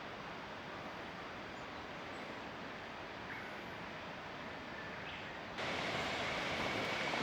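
Steady rush of flowing water from a stream or waterfall. About five and a half seconds in it cuts abruptly to a louder, closer rush.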